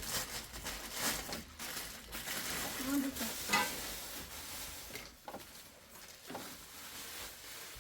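Food sizzling as it fries in a pot, with a steady hiss and repeated scraping strokes as it is stirred.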